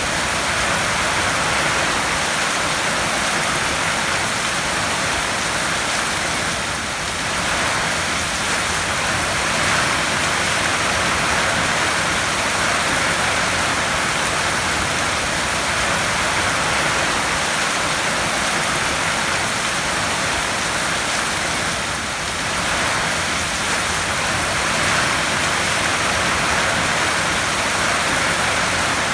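Heavy rain drumming steadily on a tin roof, a dense even hiss with two brief slight lulls.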